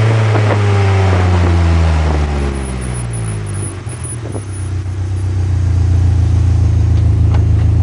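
Subaru Impreza GF8's turbocharged flat-four running through a FUJITUBO RM-01A muffler: the revs fall away after a blip over the first two seconds or so, then it settles to a steady, deep idle that grows louder about halfway through.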